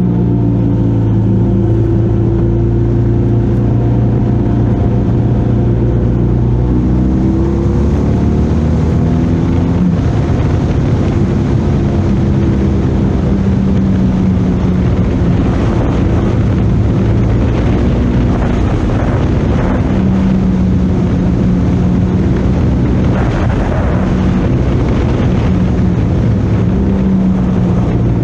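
Motorcycle engine running hard at speed, its pitch rising and falling with throttle and gear changes, over heavy wind rush.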